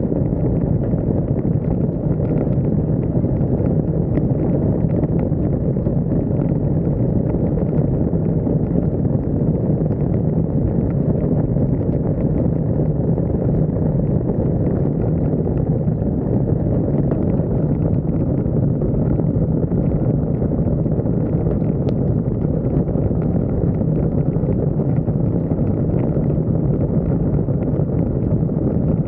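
Steady wind rumble buffeting a roof-mounted camera's microphone, with scattered faint ticks.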